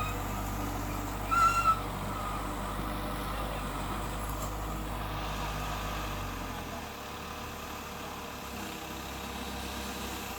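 Heavy diesel earthmoving machinery running steadily with a low engine hum that drops and gets quieter about six and a half seconds in. A brief high tone sounds about a second and a half in.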